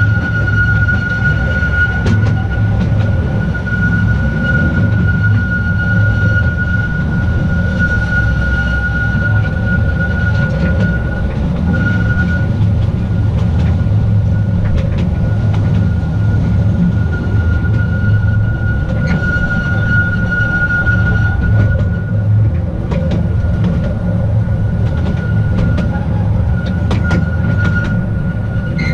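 Narrow-gauge Petit Train d'Artouste running along its track: a steady low rumble of wheels on rail, with a continuous high-pitched whine over it and scattered light clicks.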